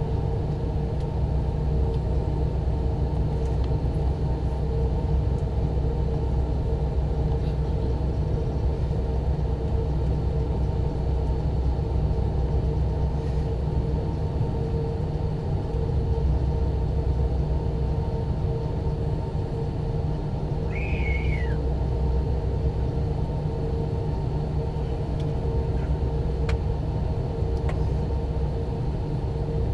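Cabin noise of a McDonnell Douglas MD-90-30 airliner on the ground before takeoff: the rear-mounted IAE V2500 engines run at idle with a steady low rumble and an even hum. The level does not change at all.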